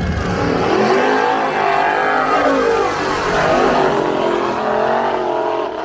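Drag race car engine at full throttle on a run down the strip, loud, its pitch wavering up and down.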